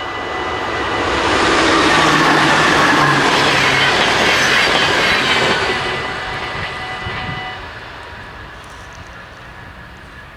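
A train passes through a Dutch level crossing. Its noise swells to a peak about two seconds in and fades away after about six seconds. Over it the crossing's warning bells ring steadily and stop about seven and a half seconds in.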